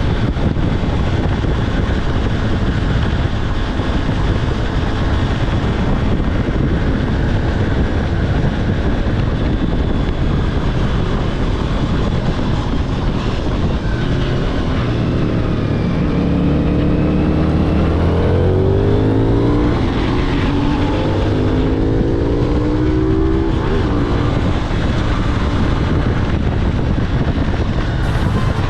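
Heavy wind rush on an on-board camera riding a CFMOTO 450SS sport bike, with the bike's parallel-twin engine underneath. About halfway through, the engine note climbs in pitch several times as it accelerates through the gears, then falls back under the wind.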